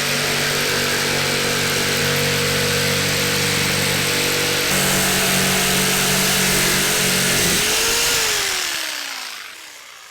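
Power saw cutting through old timber, running steadily with a change in its note about halfway through. Near the end it is released and winds down with a falling whine.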